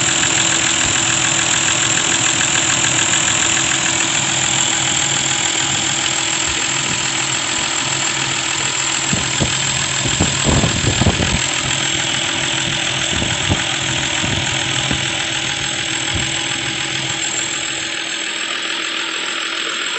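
Toyota Land Cruiser 1HD-FTE 4.2-litre straight-six turbodiesel idling steadily. A few short knocks come over it around the middle.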